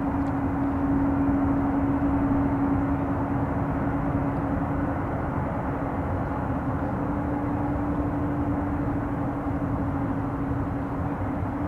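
Jet engines of a landing Boeing 777-200ER: a steady rumble with a steady low hum, easing slightly toward the end.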